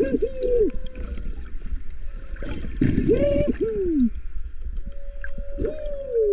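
Humpback whale song heard underwater: a run of pitched calls that rise and fall, several in quick succession at the start, two more about three seconds in and one near the end, over a constant low rumble of water.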